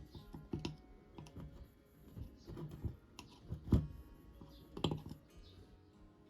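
Irregular clicks and knocks of hands working on an antique hand drill and its parts. The loudest knock comes a little before four seconds, with another sharp double knock near five seconds.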